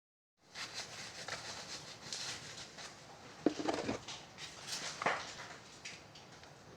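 Irregular clicking and knocking from the axle of a 2011 Can-Am Outlander ATV, with a few louder knocks in the middle: the weird axle noise the owner is asking help with.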